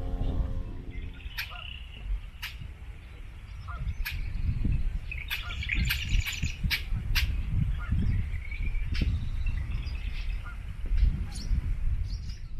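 Marsh birds calling and chirping, with scattered sharp clicking calls and a busier spell of chatter about halfway through, over a steady low rumble.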